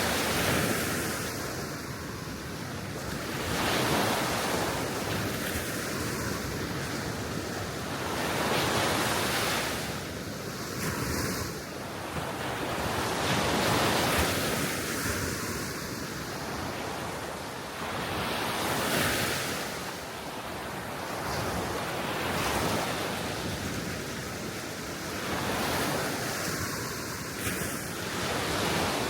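Gentle sea waves washing onto the shore, swelling and falling every few seconds, with wind blowing across the microphone.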